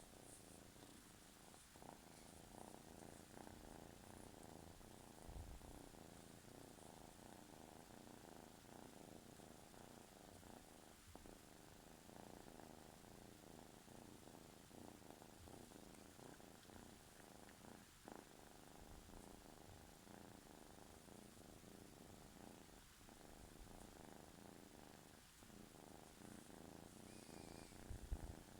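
Kitten purring softly and steadily, with a low bump about five seconds in and another near the end.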